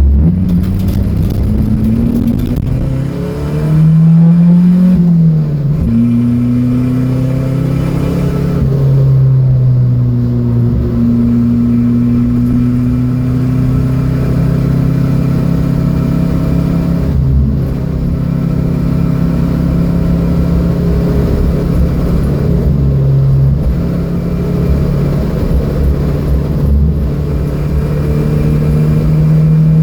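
Datsun B210's engine running hard on track. The revs climb and drop back twice in the first ten seconds or so, as with gear changes, then hold nearly steady for a long stretch and climb again near the end, over a heavy low road rumble.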